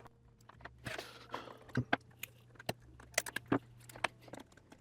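Irregular small clicks and taps of plastic parts being handled and pressed into place, a remote controller's antenna boards being seated in its plastic shell, with a sharp cluster of clicks a little past three seconds in.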